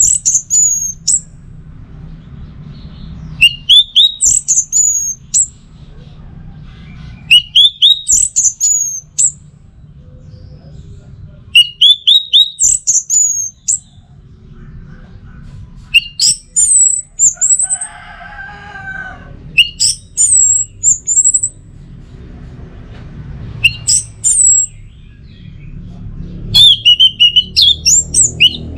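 Orange-headed thrush song: bursts of quick, high whistled notes, each burst lasting about a second and repeated roughly every four seconds. A low steady rumble runs underneath, and about two-thirds of the way through a lower, separate call sounds once.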